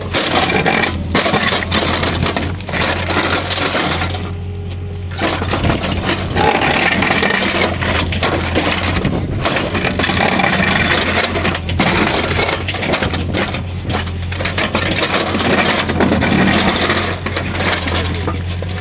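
Backhoe's diesel engine running steadily under load while its ripper attachment tears into the ground, with constant cracking, crunching and knocking as material breaks apart.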